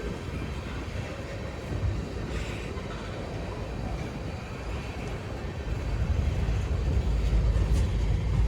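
Freight train cars, gondolas among them, rolling past on the rails: a steady rumble of wheels with a few faint clicks, growing louder about six seconds in.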